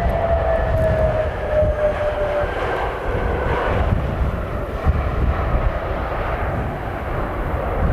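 Airbus A321neo jet engines after landing, with a whine that slides slowly down in pitch and fades out in the first few seconds, over heavy gusty wind buffeting the microphone.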